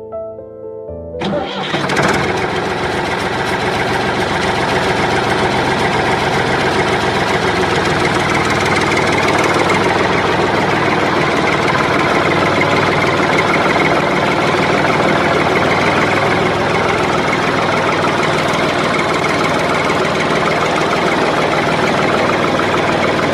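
Soft music, then about a second in a motor starts and runs steadily with a fast, even pulse. It cuts off suddenly at the end.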